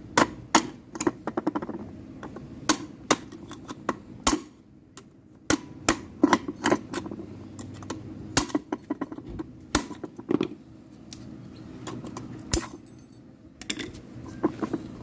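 Screwdriver prying and tapping at the retaining clip of a driveshaft universal joint: many sharp, irregular metallic clicks and taps, with a few louder knocks.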